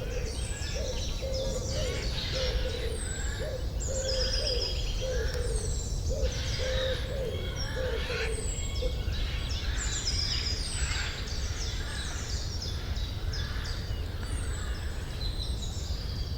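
Forest birdsong: several songbirds chirping and trilling in overlapping high, short phrases. For about the first half there is also a low call repeated many times, over a steady low rumble.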